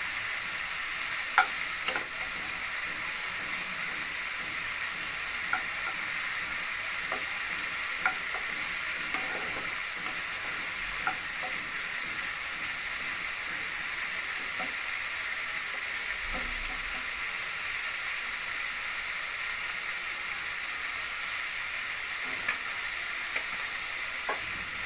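Prawns sizzling steadily in a little oil in a non-stick frying pan as the last of the water cooks off, with a wooden spatula tapping and scraping the pan now and then.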